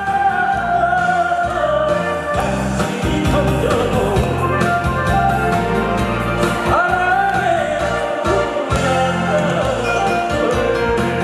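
A singer's voice over a backing track, holding long notes with vibrato near the start and again about seven seconds in.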